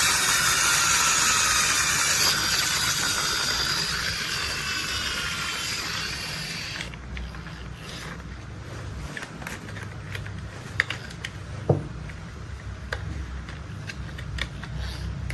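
A loud hiss with falling whistling tones fades for about half the time, then cuts off suddenly. A quieter low rumble follows, with scattered sharp clicks from toy construction vehicles being handled, two of them louder just past the middle.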